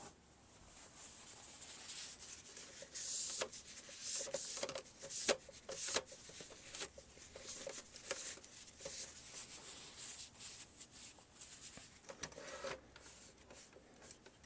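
Faint handling noise from a DVD recorder's casing and parts being worked by hand: irregular rubbing and scraping with many small clicks, and a few sharper knocks about five to six seconds in.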